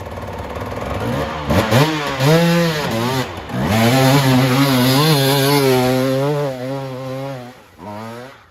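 Dirt bike engine revving up and down several times, then held at steady high revs for a few seconds. It drops off near the end, with one last short blip of the throttle.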